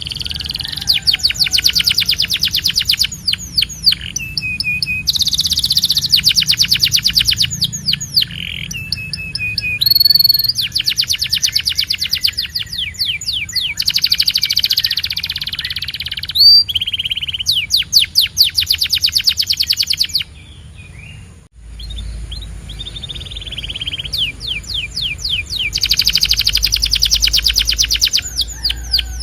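Domestic canary singing: fast rolling trills of rapidly repeated high notes in phrases of a few seconds each, linked by short sweeping whistles, with a brief pause about two-thirds of the way through.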